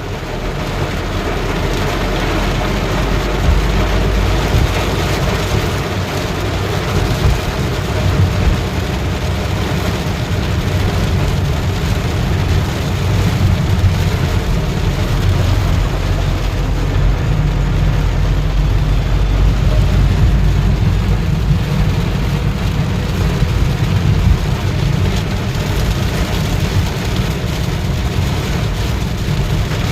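Heavy rain pouring steadily, with a deep, constant rumble underneath.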